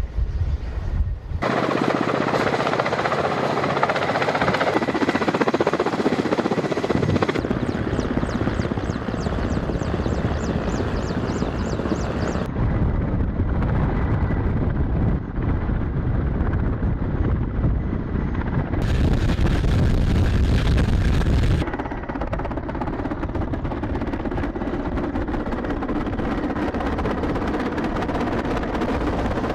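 Military helicopter rotors and turbine engines running loudly and steadily, through a series of edited shots whose sound changes abruptly every few seconds.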